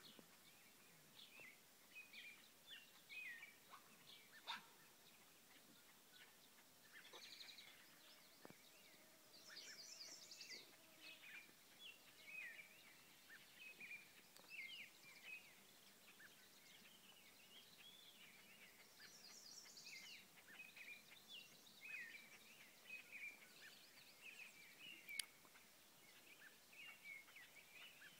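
Faint birdsong: many short, high chirps and trills, scattered throughout.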